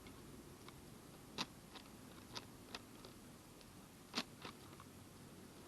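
Faint, scattered clicks and taps, about half a dozen and the loudest about four seconds in, from small parts of a nitro RC truck being handled by hand.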